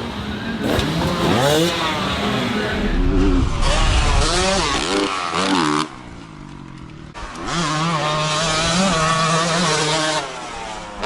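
Dirt bike engines revving, their pitch rising and falling with the throttle. The sound drops away about six seconds in, then an engine comes back with a steadier, even pitch.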